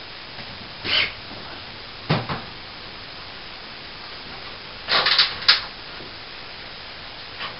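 A few short, sharp scrapes and knocks of hand-tool work, loudest in a quick cluster just past the middle, over a steady background hiss.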